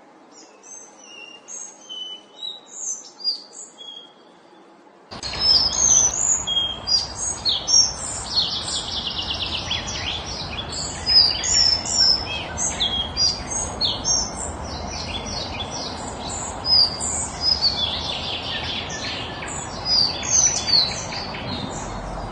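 Collared flycatcher singing: short, high chirps and whistled phrases. About five seconds in, the song becomes louder and much denser, with rapid trills, over a steady background noise.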